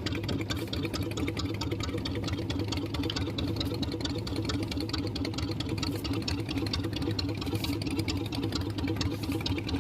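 Fishing boat's engine running steadily with a fast, even rattle.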